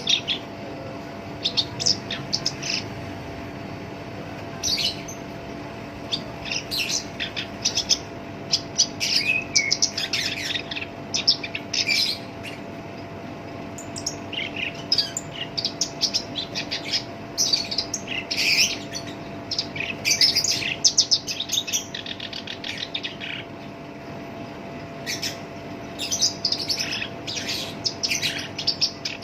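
Black-browed reed warbler singing a rough, harsh song in rapid bursts of high notes, phrase after phrase with short pauses between.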